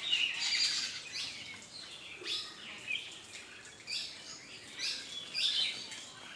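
Bulbuls and other small birds chirping and calling in short, quick notes that come several times a second and overlap.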